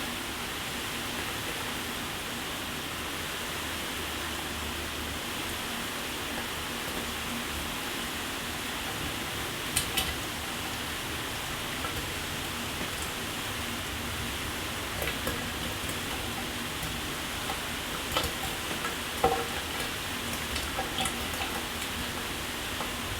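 A shower running: a steady hiss of water spray. A few brief, sharper spatters come about ten seconds in and again in a cluster near the end.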